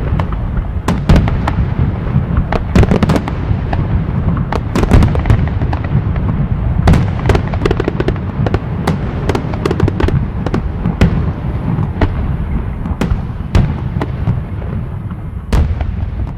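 Fireworks going off, with many sharp bangs in quick, irregular succession over a continuous low rumble.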